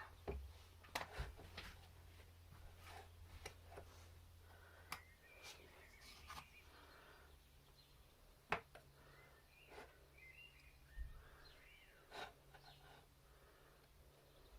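Near silence: faint room tone with a low hum and scattered faint clicks and small knocks.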